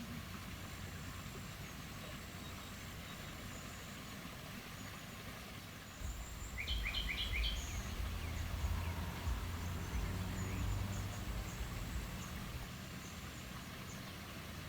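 Outdoor woodland ambience: a steady hiss with faint high ticking calls, and a bird giving four quick chirps about halfway through. A low rumble swells up at the same moment and fades out a few seconds later.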